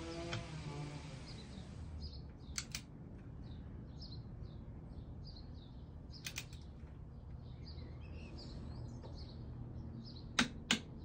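Small birds chirping over and over in the background, with a few sharp clicks from work on the motorcycle's drain plug: a pair about two and a half seconds in, one near the middle, and a louder pair near the end.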